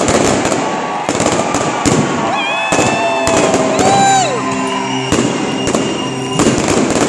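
Aerial fireworks display: shells bursting in repeated bangs and crackling, over crowd noise.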